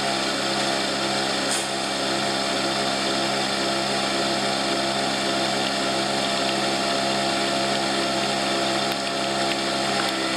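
Nespresso Vertuo coffee machine brewing a short espresso pour, its spinning capsule and pump making a loud, steady whir with a hum.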